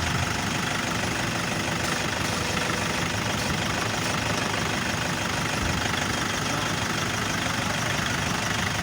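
Toyota Innova engine idling steadily, running with the steering being worked lock to lock.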